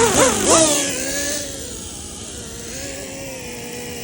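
Small electric drone motors spinning sycamore-seed propellers: the whine rises and falls several times in the first second as the throttle is worked, then holds a steady pitch as the seed-propeller drone lifts and flies.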